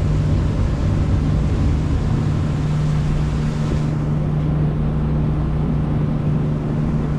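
Boat engine running steadily, a constant low hum with a hiss of water and wind over it; the hiss drops away about four seconds in while the hum carries on.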